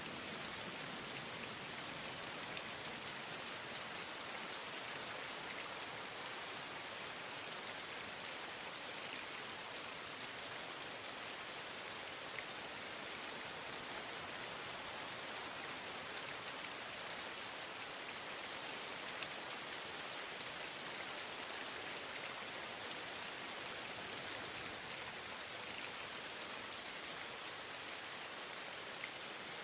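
Steady rain falling, an even hiss of many small drop impacts that holds at one level throughout.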